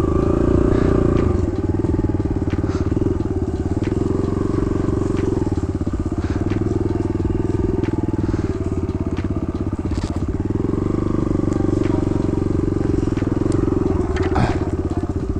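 Kawasaki KLX110 dirt bike's small single-cylinder four-stroke engine running at low speed, its pitch rising and falling a little with the throttle, with a few brief knocks.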